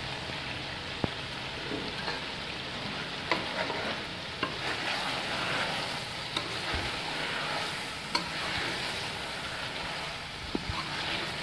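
Chicken and potato curry frying with a steady sizzle in a metal pot, just after garlic-ginger paste has gone in. A metal spoon stirs it, scraping the pot with a sharp clink now and then.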